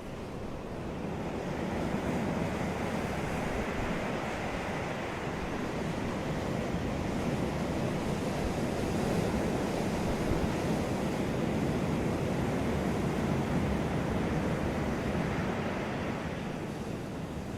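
Ocean surf on a beach: a wave's wash swells about two seconds in, holds for much of the stretch, and eases off near the end.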